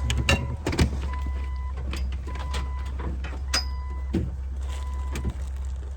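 Off-road vehicle's engine running low and steady at crawling speed, with scattered knocks and creaks from the rig working over rock. A short electronic beep sounds four times, about a second apart.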